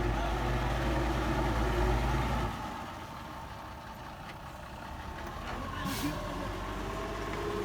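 Heavy diesel engine of earthmoving machinery running with a strong low hum that drops off abruptly about two and a half seconds in, leaving a quieter engine sound. A brief hiss comes about six seconds in.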